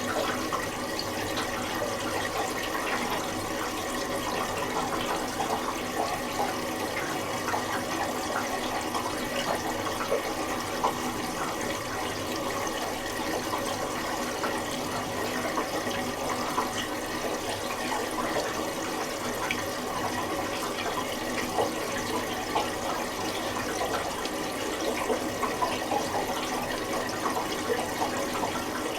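Miele Little Giant PWM 507 commercial washing machine filling: water runs steadily into the drum with small splashes, as the woollens cycle takes in water at its start.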